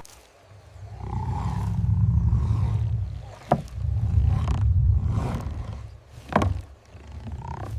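Deep growls from a large animal, two long rumbling stretches of a couple of seconds each, with a sharp crack between them and another after.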